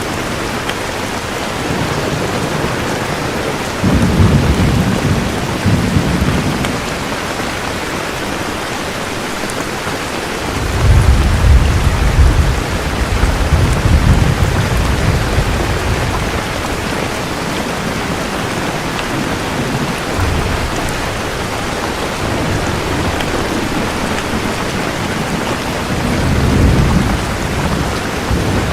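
Steady heavy rain with rolling thunder: one rumble about four seconds in, a longer, louder one from about eleven to fifteen seconds, and a shorter one near the end.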